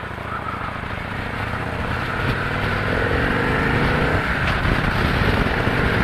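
Victory Cross Country's V-twin engine accelerating hard, its pitch climbing while the loudness builds. Wind rushes over the microphone and grows louder as speed rises.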